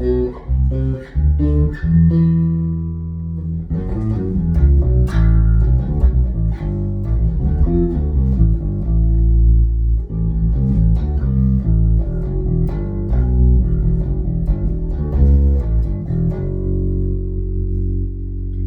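Custom Fender American Deluxe Precision Bass played on its neck pickup with the mids turned up, through a Markbass Little Mark Tube amp: a run of plucked notes and riffs, ending on one long held note near the end.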